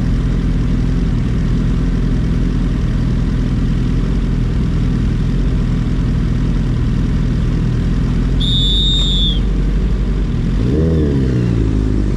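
Kawasaki ZX-6R inline-four engine idling steadily, then revved up and back down near the end before its pitch starts climbing again. A short high beep sounds about two-thirds of the way through.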